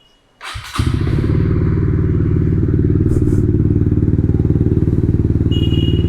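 Honda motorcycle with a titanium Yoshimura GP Magnum exhaust starting up about half a second in, then idling steadily with an even, fast exhaust pulse. The exhaust note is neither very loud nor very quiet.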